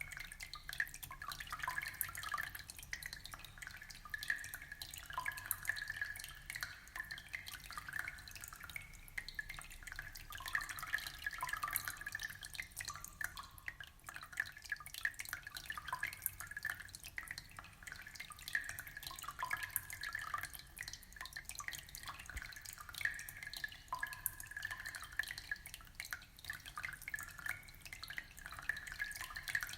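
Aquarium water trickling and dripping, a steady stream of small plinks and splashes.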